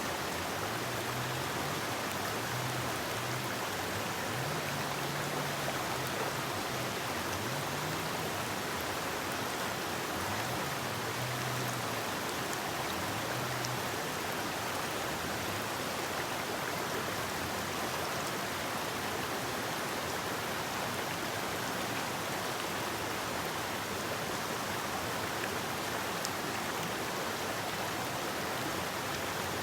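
Forest river flowing steadily, an even rushing of water over rocks. A faint low hum wavers in and out during the first half.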